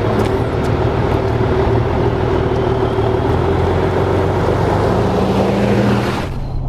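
Volvo F16 truck's 16-litre straight-six diesel running steadily on the road, heard from inside the cab as a low drone with road and wind hiss. The hiss falls away sharply about six seconds in.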